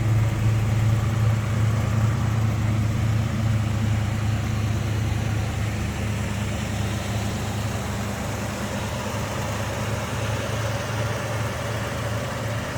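Ford 289 V8 idling steadily through dual exhaust, a low even burble that gradually grows quieter.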